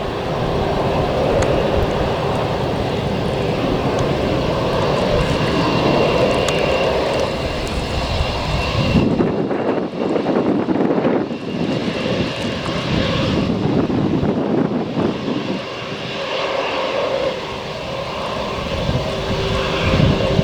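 Airbus A320-232 jet engines running at takeoff power as the airliner departs: a loud, steady rushing jet noise with a thin steady whine laid over it.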